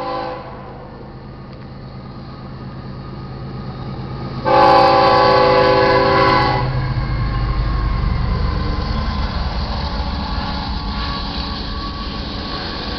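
GE ES44AC diesel locomotive's multi-tone air horn gives a brief blast, then a longer one of about two seconds: the short-and-long close of the grade-crossing horn signal. The locomotive and the ore cars behind it then pass over the rails with a low, steady rumble that builds and holds.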